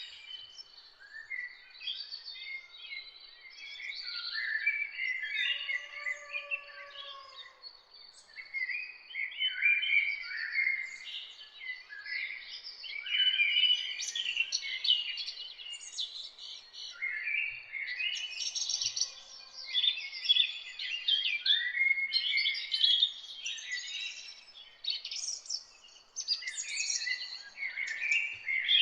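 Many small songbirds singing and chirping at once, an overlapping chorus of quick high notes and trills over a faint steady hiss. About six seconds in a lower, slightly falling whistled note sounds.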